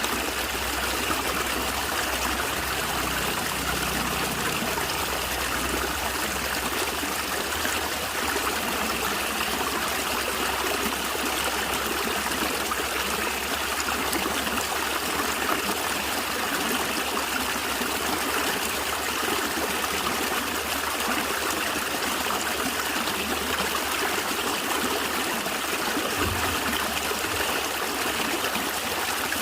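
Natural stream gurgling steadily, water trickling and splashing without a break.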